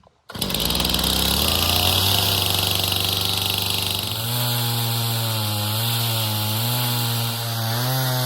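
Chainsaw engine on a chainsaw mill coming in sharply and revving up over the first few seconds. It then runs high and steady with slight dips in speed as the chain cuts along the log.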